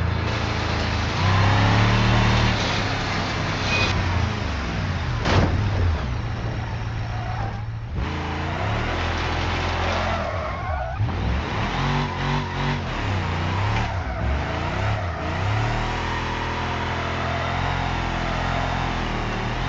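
LS1 V8 engine in a Ford F-150 pickup running under way, its note rising and falling in pitch as it revs and changes speed.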